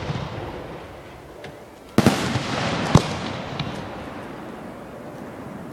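Aerial firework shells bursting at a public display: a loud bang about two seconds in, a second sharp report a second later, each followed by a long fading echo.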